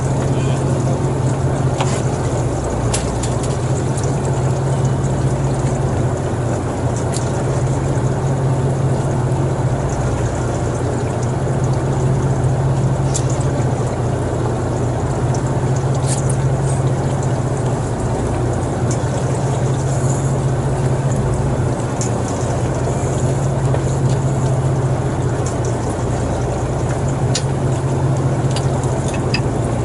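An engine running steadily, a constant low hum under a wash of noise, with a few faint clicks now and then.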